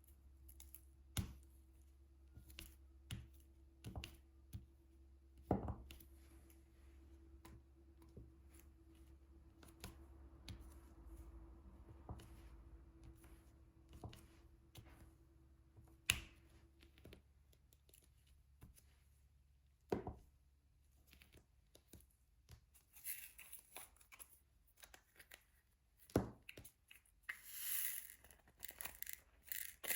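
Diamond painting pen tapping resin drills onto the sticky canvas: scattered light clicks, every second or two. A crinkling, rustling sound comes in over the last several seconds.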